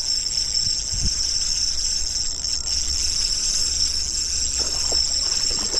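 Steady high-pitched chorus of insects, with a low rumble underneath and a short thump about a second in.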